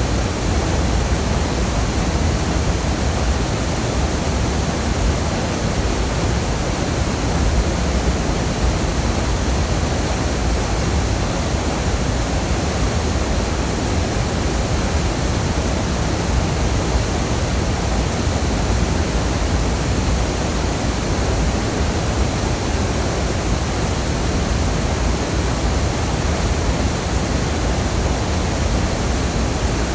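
A waterfall running: a steady, loud rush of falling water with a deep low rumble.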